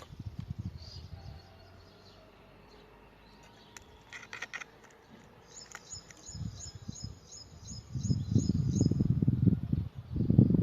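A songbird singing: scattered high notes, then a quick trill of repeated high chirps about midway through. A low rumbling noise comes and goes under it, loudest in the second half.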